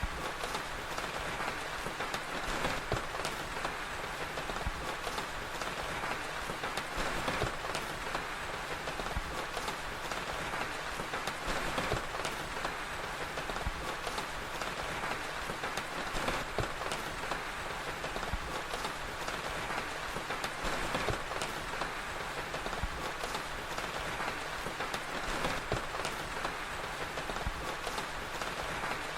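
Steady rain ambience with frequent short, sharp crackles from a fire scattered through it.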